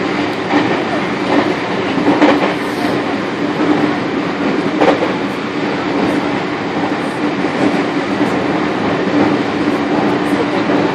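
Japanese conventional passenger train running along the line, heard inside the carriage: a steady loud rumble with a constant hum and occasional short sharp clicks.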